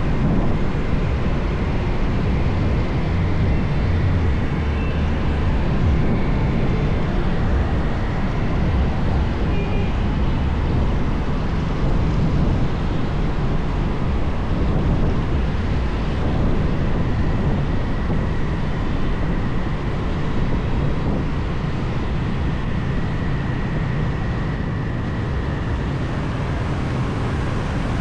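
Steady low rumble of a motorbike riding along a busy highway: its engine, wind and surrounding traffic blended together with no single distinct event.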